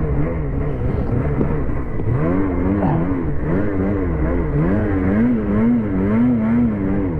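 Ski-Doo 850 two-stroke snowmobile engine running hard in deep snow, its pitch rising and falling about twice a second as the throttle is worked on and off.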